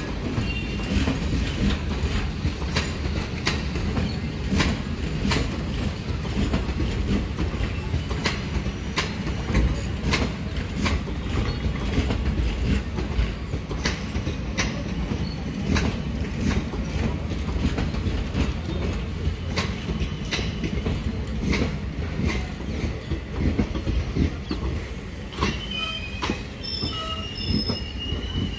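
Indian Railways passenger coaches of an express train rolling past, a steady low rumble with repeated sharp wheel clicks over rail joints and points.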